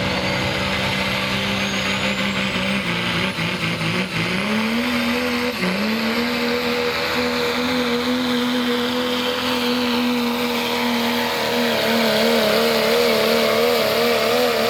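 Pro stock Dodge Cummins turbodiesel pickup at full throttle pulling the sled. The engine note climbs about four seconds in and then holds, while a high turbo whistle rises in pitch. Near the end the engine speed wavers up and down.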